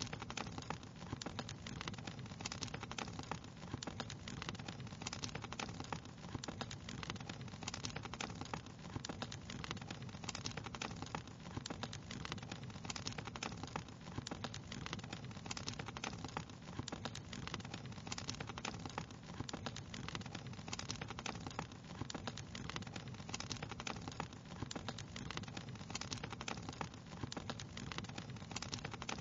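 Wood fire crackling steadily: dense, irregular small pops and snaps over a continuous low rush of burning.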